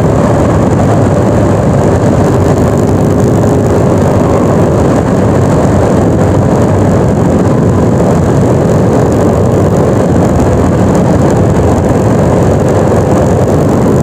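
Yamaha NMAX 155 scooter on the move: its engine runs steadily under a loud, constant rush of wind and road noise.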